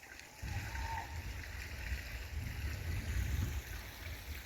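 Wind buffeting the microphone outdoors: an uneven low rumble that starts about half a second in, with a faint hiss of moving air above it.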